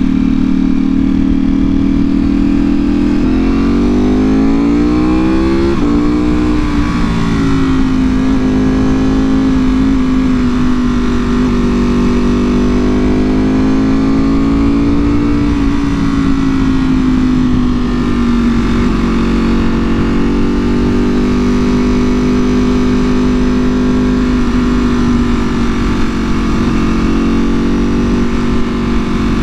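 2024 Ducati Panigale V4R's V4 engine through an Akrapovic full exhaust, running under way at a steady note. About three seconds in, the revs climb for a few seconds and then drop back. After that it holds a fairly even pitch with slight rises and falls.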